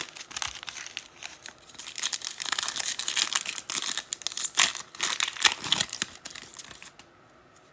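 Foil trading-card pack wrappers being torn open and crinkled by hand, a dense crackling that stops about seven seconds in.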